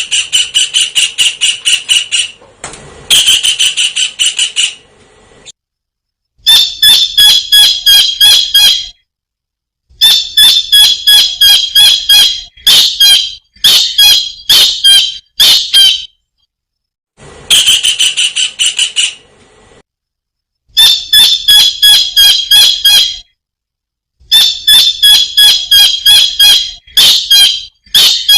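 Kingfisher (tengkek udang) calling: quick series of sharp, high, piercing notes, given in bouts of a few seconds separated by short pauses.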